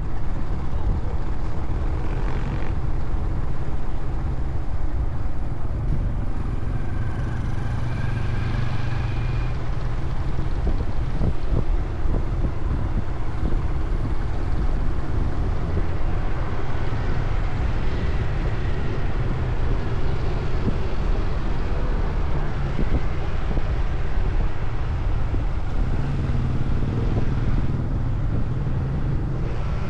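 Motorcycle engine running under way, with a steady low rumble of wind on the microphone and road noise.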